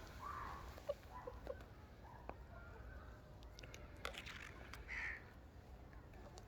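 Chickens giving a few soft, short calls, one louder call about five seconds in, with scattered small clicks and taps.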